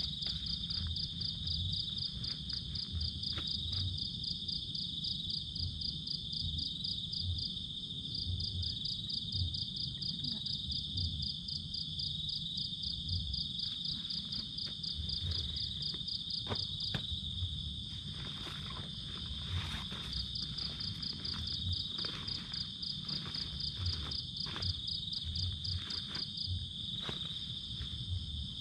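Night insects chirping: a steady high buzz with a rapid pulsing trill above it that breaks off and resumes several times. Scattered light clicks and rustles sound close by.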